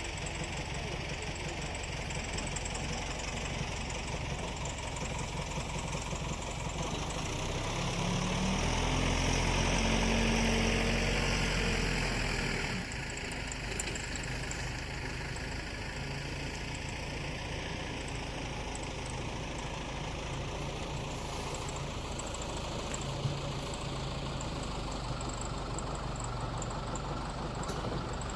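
An engine running steadily. About a quarter of the way in, it revs up, rising in pitch and level for about five seconds. It then drops suddenly back to a steady run.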